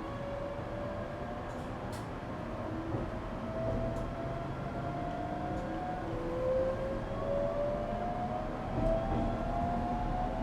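Toyo GTO-VVVF inverter and traction motors of an ET127 series electric train accelerating: a string of whining tones climbing in pitch, each dropping back as the next one rises, over the steady rumble of the train running, growing slowly louder.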